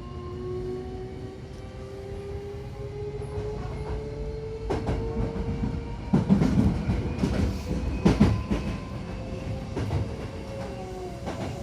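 Hankyu Takarazuka Line electric train accelerating: the traction motors whine with several tones rising steadily in pitch. From about five seconds in, the wheels clack over rail joints with louder rumbling.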